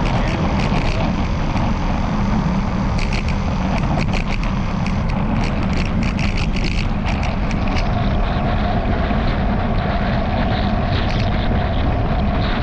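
Steady wind and riding rumble on a bicycle-mounted camera, with the camera mount rattling in quick clicks through the first half.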